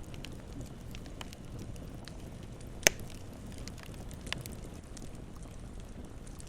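Campfire crackling steadily with scattered small snaps, and one sharp, loud pop about three seconds in, with a smaller one a little over a second later.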